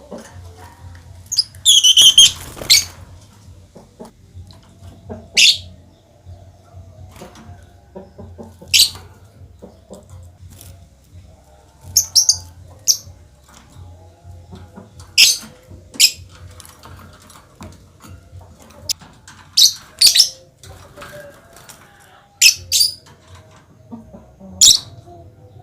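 Small cage birds (lovebirds, sunbirds and sparrows) in an aviary giving short, shrill, high calls: a longer run of calls about two seconds in, then single or paired sharp calls every few seconds.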